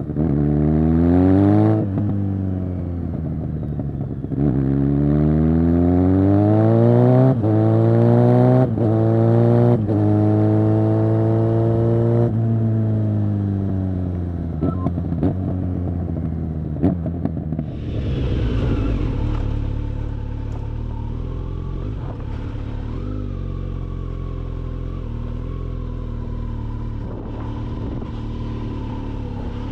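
2022 Kawasaki Z900 SE inline-four through a Zard full-system exhaust, loud, accelerating hard through about five quick upshifts, each a climbing note that drops at the shift. About twelve seconds in the revs fall away off the throttle with a couple of sharp cracks, and from about eighteen seconds in the engine runs at a steady note.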